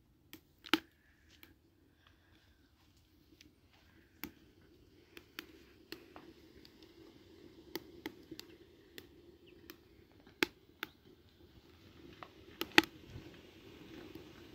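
Irregular sharp clicks and knocks of objects being handled, over a faint steady low hum that grows a little louder toward the end.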